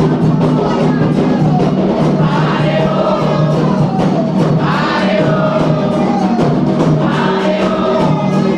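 Candomblé atabaque drums playing a fast, dense rhythm while a group of voices sings a chant for the orixá Oyá.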